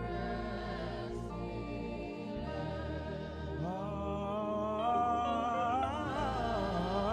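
Live gospel worship music: a saxophone holds a long melody note with vibrato over a steady band accompaniment, the vibrato growing wider near the end.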